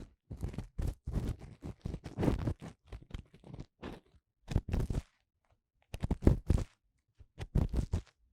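An ear-cleaning tool scraping and rubbing inside the silicone ear of a 3Dio binaural microphone, in short, irregular strokes with a pause of about a second around the middle.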